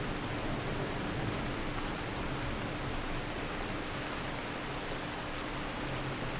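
Steady rain in a city: an even hiss with a few faint drop ticks and a low steady hum underneath.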